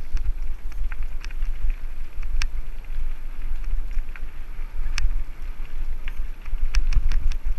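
Mountain bike riding downhill over a rough trail: irregular sharp clicks and rattles over a steady low rumble of wind on the microphone.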